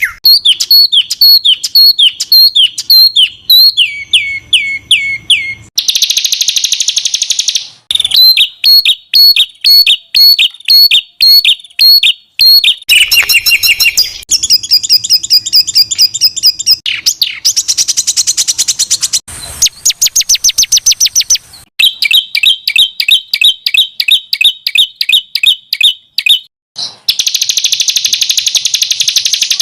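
Songbird masteran recording: spliced calls of several small songbirds, each a fast string of sharp, repeated high notes. It switches abruptly to a different call every few seconds, and two stretches are dense buzzy trills.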